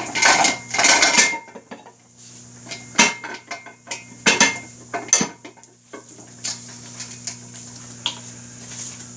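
Metal tools and wheel parts clanking and scraping against each other in a series of sharp clinks, loudest in the first second and in single hits about three, four and five seconds in.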